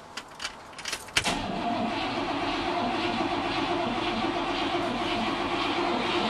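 A few sharp clicks, then the 1962 Cadillac's 390 V8 catches suddenly about a second in and settles into a steady run. It is a cold start after the car has sat for a month.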